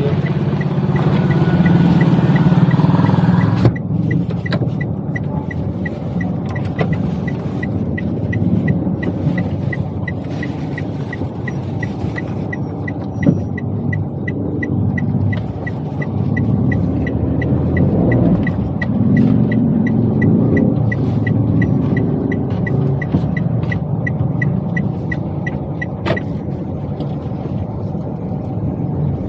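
Inside a Toyota Wigo's cabin while driving: steady engine and road noise, with the turn-signal indicator ticking evenly, two to three ticks a second, from about four seconds in until near the end. A single thump comes about halfway through.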